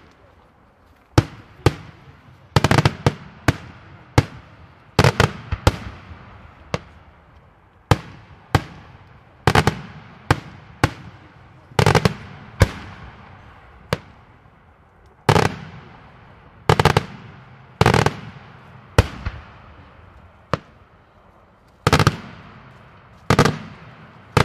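Daytime fireworks: aerial shells bursting in a steady, irregular run of sharp bangs, about one to two a second and sometimes in quick clusters, each echoing away briefly.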